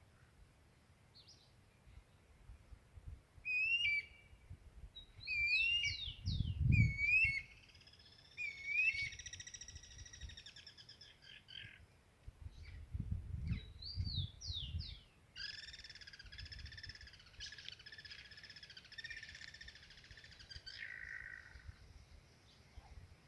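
Songbirds singing in the wild: short, varied whistled and chirped phrases, then a longer, harsher buzzy phrase about two-thirds of the way through. Now and then a low rumble sounds underneath.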